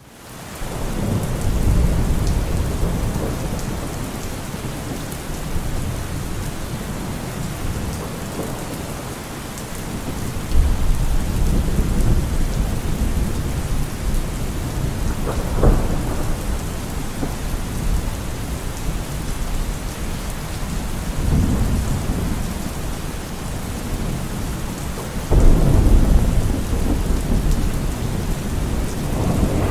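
Thunderstorm: steady rain with low rolls of thunder rising and fading several times, a sharper crack about fifteen seconds in and a loud rumble breaking about twenty-five seconds in. It fades in at the start.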